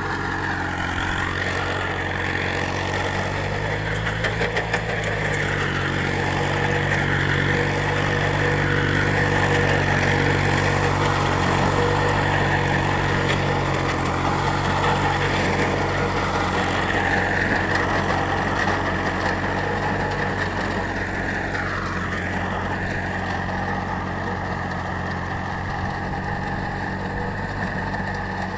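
Small engine of a mini tractor with a rotavator running steadily, swelling slightly for a few seconds partway through.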